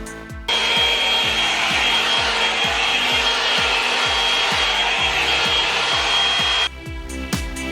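Revlon One-Step hot-air brush dryer running with a steady high whine, switched on about half a second in and off about a second before the end, over background music with a steady beat.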